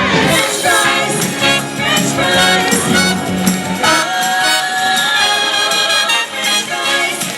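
Female vocal group singing an upbeat song with instrumental backing; about four seconds in the low bass drops out, leaving the voices and higher instruments.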